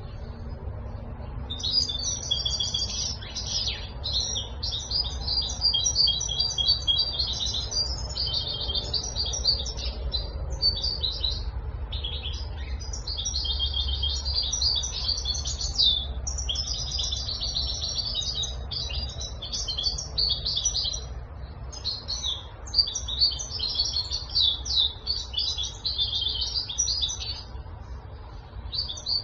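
European goldfinch singing a long, fast twittering song that starts about a second and a half in and carries on with only brief breaks. A low steady rumble runs underneath.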